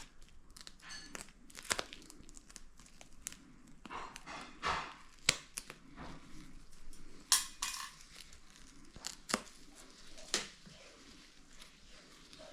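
Intermittent tearing and crinkling of material being handled, with scattered sharp clicks and knocks and two louder rustling bursts, one about four seconds in and one near the middle.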